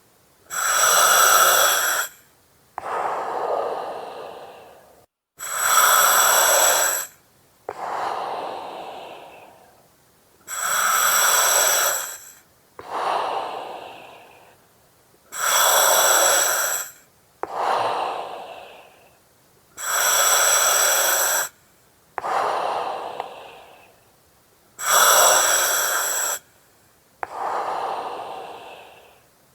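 Breathing through an oxygen mask, slow and regular, about six breaths. Each breath is a loud hiss from the mask's valve, then a softer breath that fades away.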